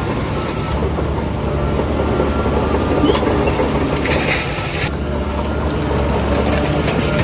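Heavy diesel earthmoving machinery, most likely the Shantui DH17C3 crawler bulldozer, running steadily under load with a low engine drone and some clanking. A short hiss comes about four seconds in.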